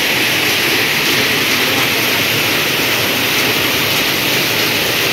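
Heavy downpour: a steady, even hiss of rain pouring down.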